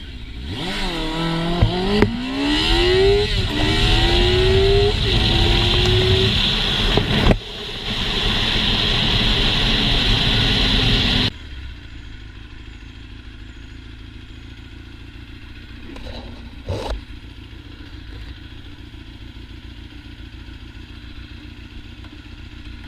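Motorcycle engine accelerating hard, its pitch climbing and dropping back several times as it shifts up through the gears. It runs loud and steady for a few seconds, then cuts off suddenly at about 11 seconds, leaving a quieter steady rush with a brief noise later on.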